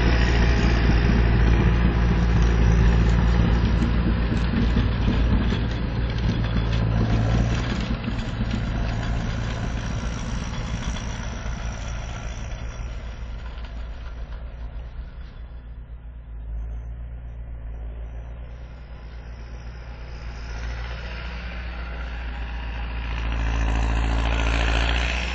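Massey Ferguson 5455 tractor's turbocharged diesel engine running steadily while snowblowing. It fades to its quietest a little past halfway and grows louder again near the end.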